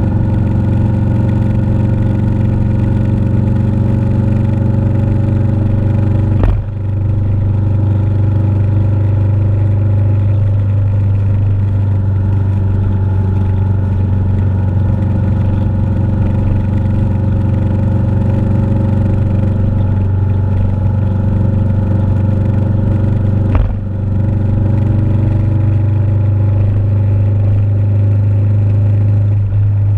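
Motorcycle engine running steadily, with two brief dips in its sound, about six seconds in and again near twenty-four seconds.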